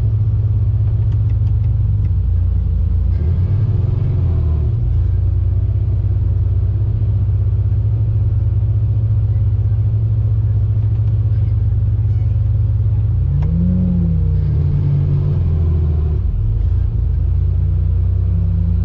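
Steady low rumble of a car, with a brief rise and fall in pitch about thirteen seconds in.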